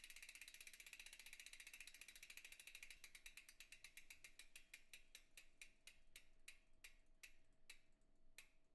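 A faint run of sharp mechanical clicks that come fast at first and slow steadily until they stop near the end, like a spun ratchet or clicker wheel winding down.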